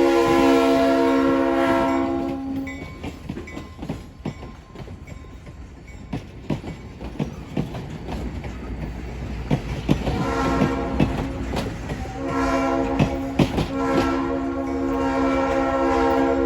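Train horn sounding a long blast at first. Then wheels click over the rail joints for several seconds, and two more long horn blasts follow, the last lasting about four seconds.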